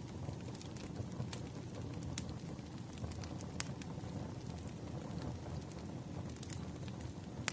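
Campfire crackling: a steady low rumble of burning wood with sharp pops and snaps every second or so.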